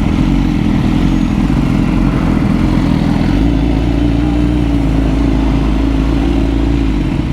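BMW superbike's engine running at a fairly steady pitch as it is ridden, with wind and road noise.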